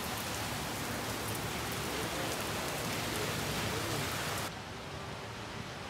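Heavy tropical rain pouring onto a paved street and roadside hedge, a dense, steady hiss of a downpour. About four and a half seconds in it cuts off abruptly, leaving a quieter, duller background.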